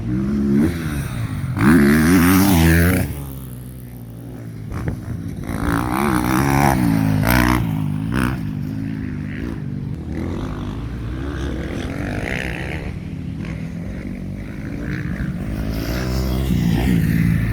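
Motocross bikes revving as they ride past, their engine pitch rising and falling with throttle and gear changes. The loudest pass comes about two seconds in, another around six to seven seconds, and a third swells near the end.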